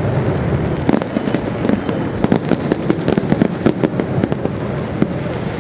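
Fireworks display: a dense, continuous crackle of many irregular sharp bangs and pops, several a second, with no pause.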